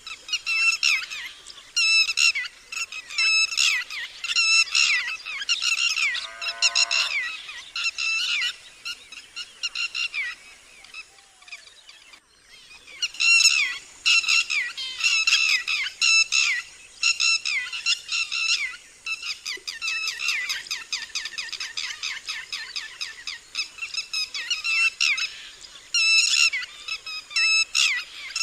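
Red-wattled lapwings giving their loud, repeated alarm calls, rapid series of sharp high notes in bursts with short pauses. There is a brief break about twelve seconds in.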